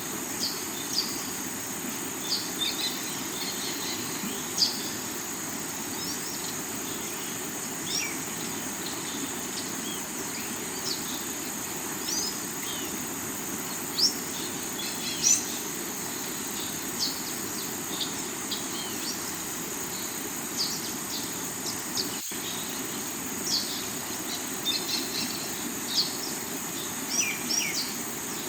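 Rocky river water rushing steadily, under a constant high insect drone and scattered short bird chirps. The sound drops out for a split second about twenty-two seconds in.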